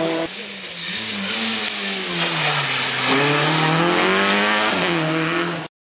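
Rally car engine revving hard through a corner, its note dropping and climbing several times with throttle and gear changes. The sound cuts off abruptly just before the end.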